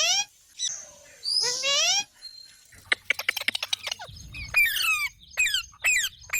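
Pet parrot calling: two rising squawks, then a fast run of clicking, then a string of short sharp calls that each fall in pitch.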